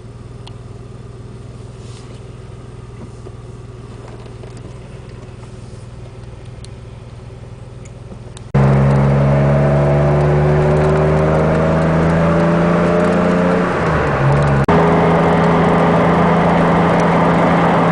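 DeLorean DMC-12's PRV V6 engine running at idle, quiet at first, then suddenly much louder about halfway through. Once loud, its pitch sinks slightly and then holds steady.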